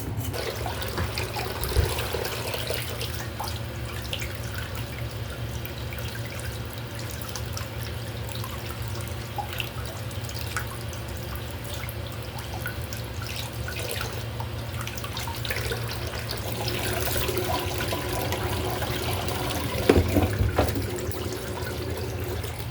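Water running from a kitchen tap into a sink, with scattered light clicks and knocks of things being handled, over a steady low hum. A sharper knock comes about twenty seconds in.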